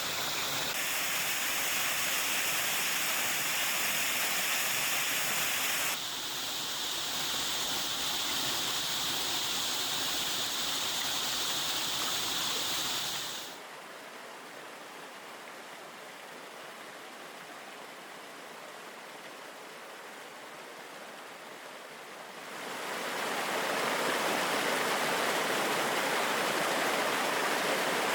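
Steady rush of falling and running water at a waterfall and its stream. The rush changes abruptly in level and tone a few times, dropping to a quieter, duller sound for several seconds around the middle before coming back louder.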